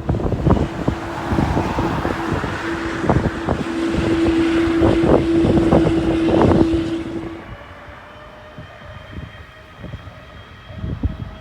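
Jet airliner engines running loud with a steady hum, mixed with wind buffeting the microphone; about seven seconds in the loud rush drops away sharply, leaving a faint, more distant engine whine.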